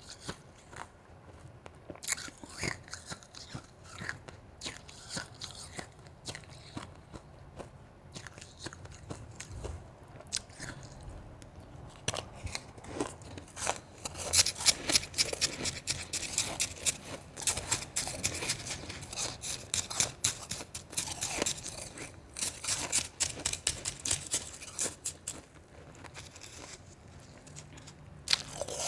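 Close-miked biting and chewing of crunchy ice. A few scattered crunches come first, then dense, loud crunching fills the middle, thinning out again near the end.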